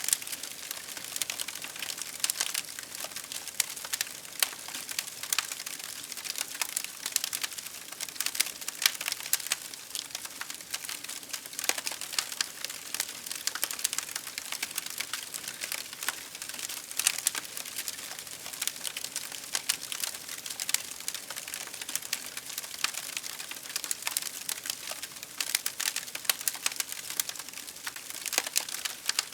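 Wood fire crackling, with a steady hiss and many small, irregular pops and snaps throughout.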